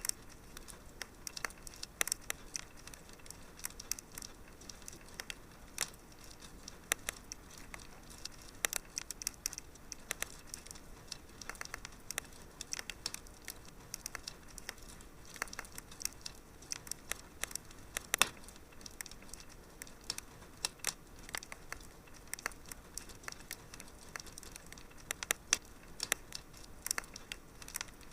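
Wood fire crackling in a fireplace: irregular sharp pops and snaps over a low steady hiss, with one louder pop about eighteen seconds in.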